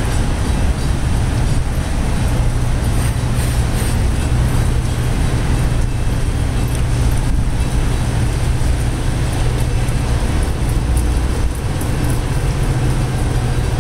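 Metra diesel commuter train running through the station with a steady low engine drone and rumble, under the hiss of heavy rain.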